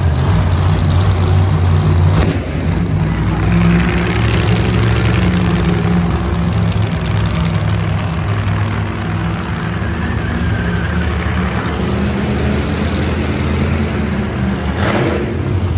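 Monster truck's big engine running, its pitch rising and falling as the revs change, with a brief rushing noise about two seconds in and again near the end.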